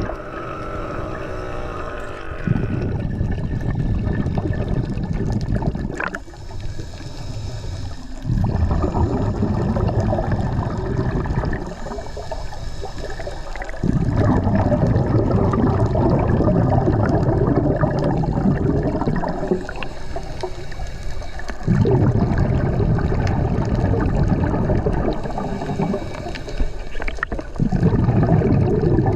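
Scuba diver breathing through a regulator underwater: about five long exhalations, each a gurgling rush of bubbles lasting a few seconds, with quieter breaths in between.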